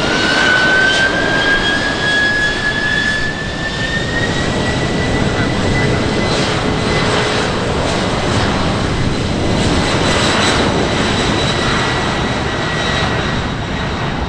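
Aircraft engines running loud, a broad rushing noise with a whine that climbs in pitch over the first few seconds and then holds steady.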